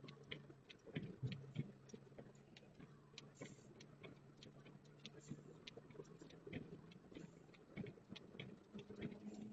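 Car engine humming quietly, its pitch rising near the end, with many faint, irregular clicks and crackles over it, like tyres working through snow.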